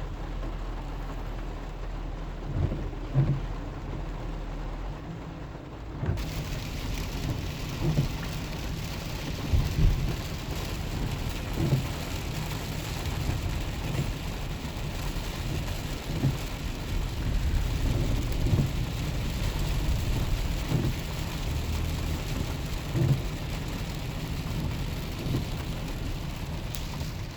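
Heavy rain falling on a moving truck, heard from inside the cab over the low rumble of the truck on the wet road, with scattered low thumps. About six seconds in the rain noise turns fuller and hissier.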